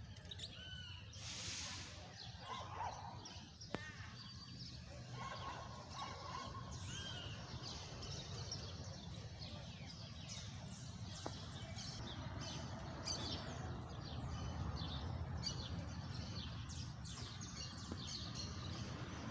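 Small birds chirping and calling, many short notes throughout, over a steady low background rumble.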